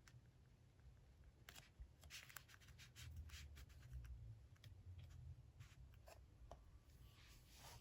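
Faint scratching and ticking of a pen writing on paper, in short irregular strokes, with a longer stretch of scratching near the end.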